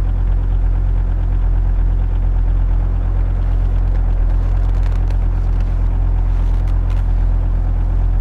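Volvo S60 five-cylinder diesel engine idling steadily after a cold start at -20°C.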